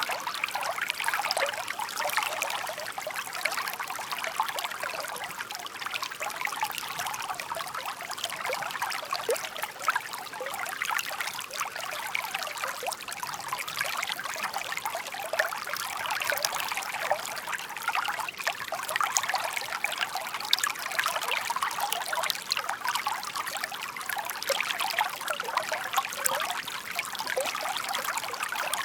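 Shallow stream babbling and trickling over stones, a steady stream of small splashes and gurgles.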